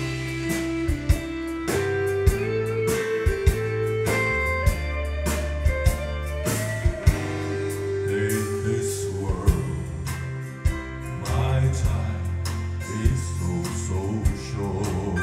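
Instrumental introduction of a country-gospel song: a band with drums keeping a steady beat, bass and guitar, and a lead melody that slides between held notes.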